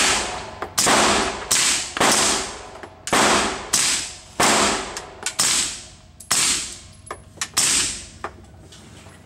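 Suppressed 9mm AR-style carbine with a short barrel and a Gemtech suppressor, firing about nine single shots in slow succession, each a sharp crack trailing off in echo. The shots stop near the end, leaving a few faint clicks.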